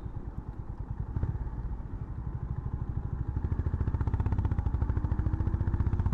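Honda CB350 Highness's single-cylinder engine running under riding, an even fast exhaust pulse that grows louder about halfway through as the bike picks up speed. A short knock about a second in.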